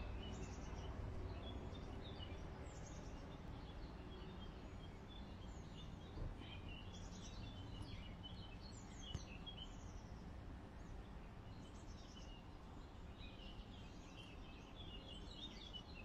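Songbirds chirping and calling in the trees: many short, high chirps, some falling quickly in pitch, scattered throughout over a steady low background rumble.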